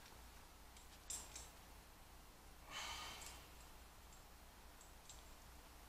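Near silence in a small workshop room, with a few faint light clicks about a second in and again near the end, and one faint breathy hiss about three seconds in.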